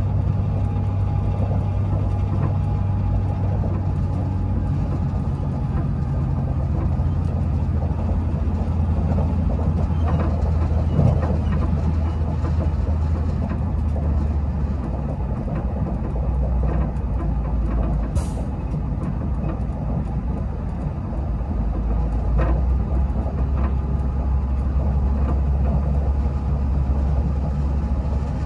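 Regional passenger train running, heard from inside the carriage: a steady rumble with a low drone that steps down in pitch a couple of times, a few faint knocks, and one brief high squeak about two-thirds of the way through.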